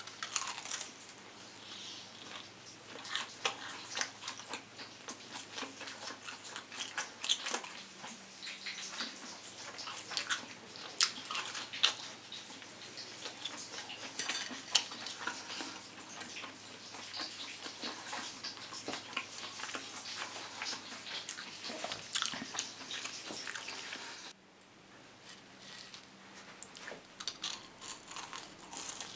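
Close-miked crunching and chewing of a deep-fried cheese dog coated in crushed-crisp crumbs. Its crispy crust cracks loudly with each bite, and the crunching gets quieter near the end.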